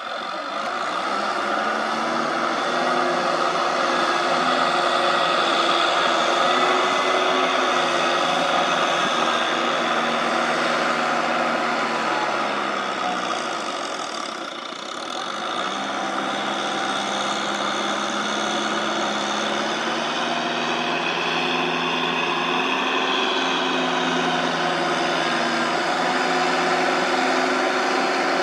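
Farm machine's engine running steadily. Its revs climb at the start, drop away about halfway through, then pick up again and hold.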